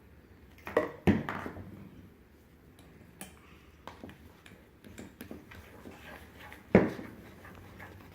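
Knocks and clinks of containers and utensils handled on a tabletop while slime ingredients are added: two loud knocks about a second in, another near the end, and lighter taps between.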